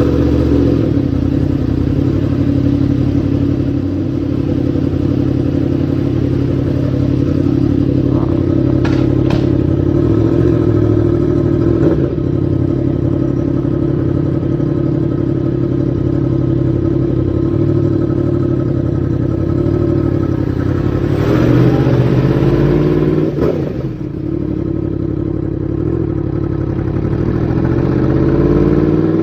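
Yamaha MT-10's crossplane inline-four engine idling steadily through its exhaust, with a short throttle blip about three-quarters of the way through and the revs beginning to climb near the end.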